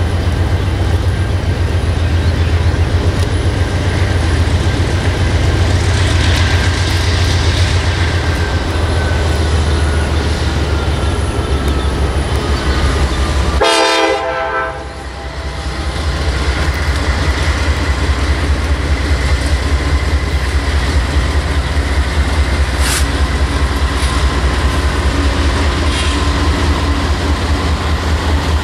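Norfolk Southern diesel locomotives leading a double-stack container train, running with a steady low rumble as they approach, with one short horn blast about halfway through.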